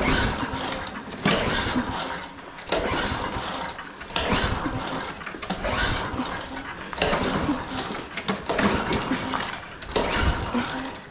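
Lawn mower engine being pull-started over and over, about eight pulls in a row, each pull a short burst of the recoil starter and cranking engine that does not catch and run.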